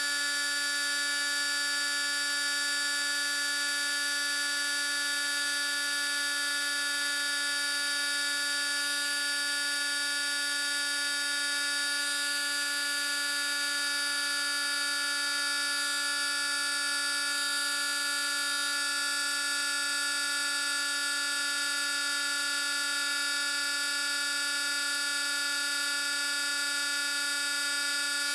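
Electric shop machine running steadily at constant speed: an even motor hum with a high whine and hiss above it, never changing.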